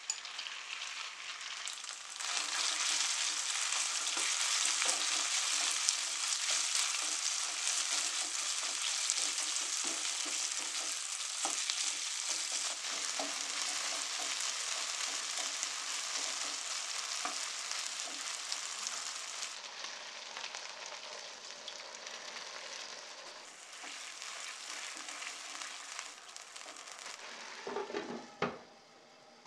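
Marinated chicken pieces sizzling in hot oil in a granite-coated wok, with a wooden spatula scraping as it stirs them. The sizzle swells loud a couple of seconds in and eases in the second half. Near the end a glass lid knocks onto the wok and the frying goes muffled.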